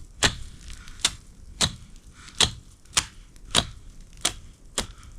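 A blade chopping at a wooden stick to sharpen it into a spear point: about eight sharp strokes, evenly spaced at a little more than one a second.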